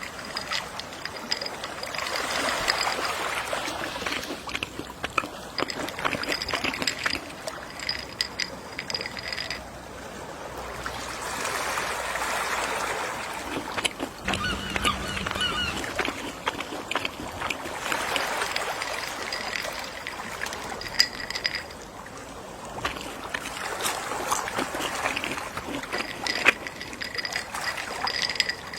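Gentle sea waves washing onto a shore, each swell rising and falling away every six seconds or so, with fizzing and crackling foam. A brief seagull call about halfway through.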